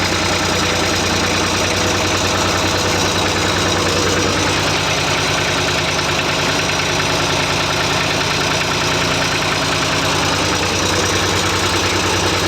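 Massey Ferguson 35 tractor engine running steadily at an even speed, with no change in pitch.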